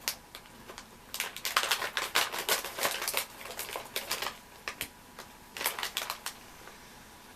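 Plastic snack packaging crinkling and crackling as it is handled and opened, in dense bursts of sharp crackles over a few seconds, with a shorter burst near the end.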